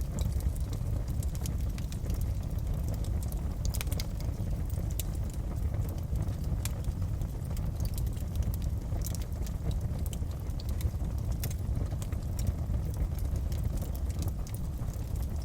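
Wood fire crackling in a fireplace: irregular sharp pops and snaps, several a second, over a steady low rumble of flame.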